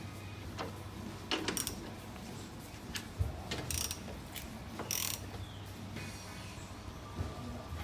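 Ratchet wrench clicking at irregular intervals, with short metal scrapes, as bolts are snugged down with a 13 mm socket.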